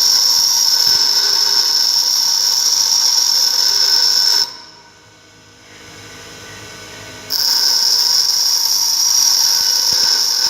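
Bench grinder wheel grinding a mild steel tool blank, a steady high-pitched whine and hiss while the steel is held against the wheel. About four and a half seconds in the steel comes off and the sound falls to a faint hum for about three seconds, then a second pass starts and the loud grinding whine returns.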